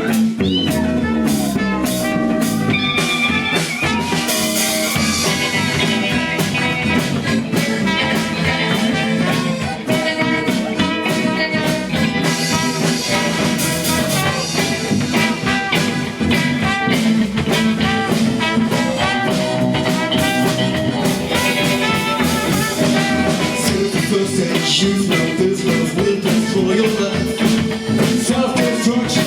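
Live band playing an instrumental passage: guitar over a steady drum beat.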